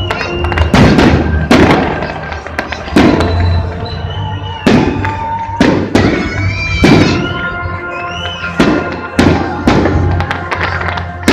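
Fireworks display, shells bursting in a run of sharp bangs about once a second, with music playing.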